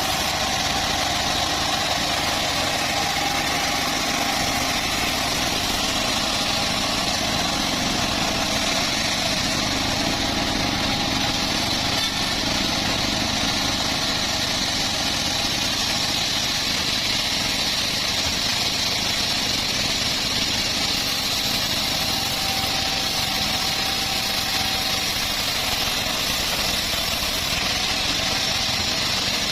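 Home-built bandsaw mill running steadily, a continuous engine-and-machinery drone without let-up.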